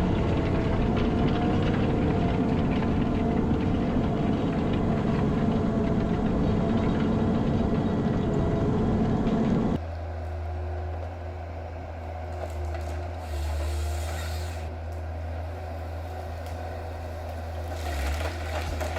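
Heavy diesel machine engine running steadily. About ten seconds in it cuts abruptly to a quieter, deep steady engine hum with a few brief scraping or rustling noises.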